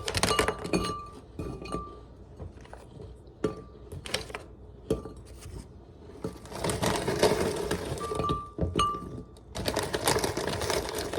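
Items being handled and put into a container: stretches of rustling with scattered clinks and knocks.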